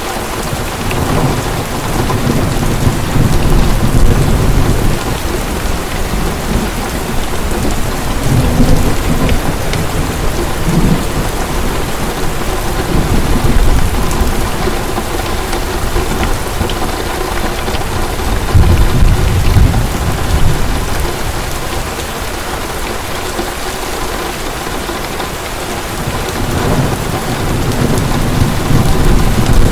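Heavy rain falling steadily, with low thunder rumbling and swelling several times.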